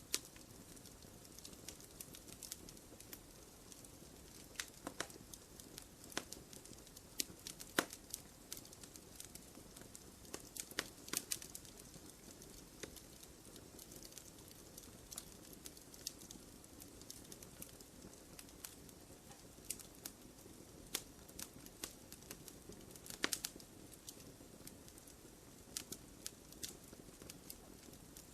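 Wood fire burning in a fireplace: irregular sharp crackles and pops over a low steady hiss of the flames.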